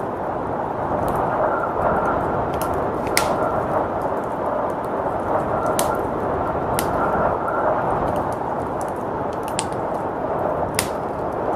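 Wood fire crackling, with sharp irregular pops, over the steady rushing noise of blizzard wind.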